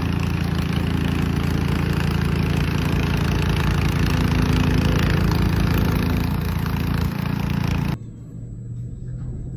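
An engine running steadily under a loud, even hiss. It cuts off about eight seconds in, leaving a much quieter low hum.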